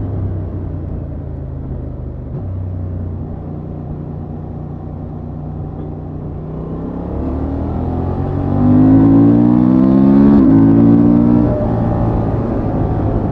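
Honda XL750 Transalp's parallel-twin engine through its stock exhaust, running steadily at low revs, then pulling harder with rising pitch from about seven seconds in. It grows loudest with a quick upshift about ten seconds in and drops back off the throttle near the end.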